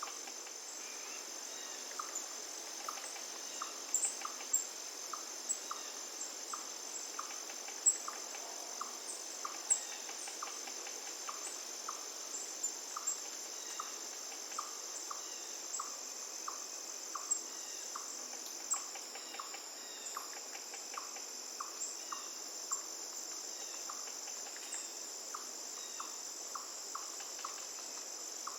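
Insects trilling in a steady high drone over the even hiss of flowing river water, with a short call repeating about twice a second and scattered sharp high chirps.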